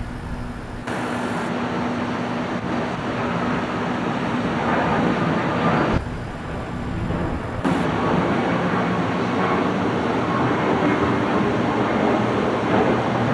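Steady rumbling roar of a Boeing 737 MAX jet airliner's engines on its takeoff run. It grows a little louder after a few seconds and drops away twice, briefly.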